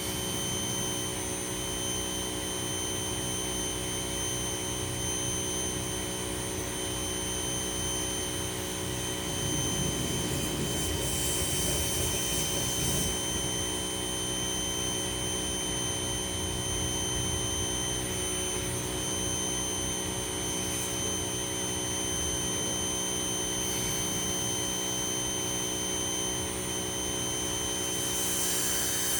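Ryobi 2000 psi pressure washer running steadily, a constant high-pitched motor whine over a hum, with a louder hiss twice, about a third of the way in and near the end.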